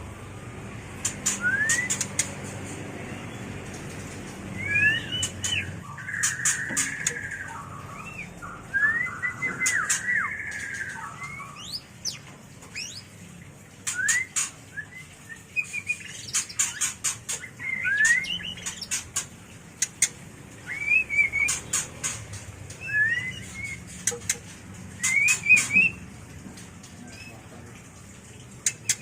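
White-rumped shama (murai batu) giving its mating call: short rising whistled notes and brief warbled phrases, mixed with repeated clusters of sharp clicks.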